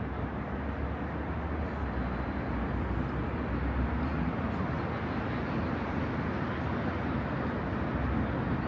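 Steady rumble of road traffic, an even wash of passing vehicles with a strong low hum.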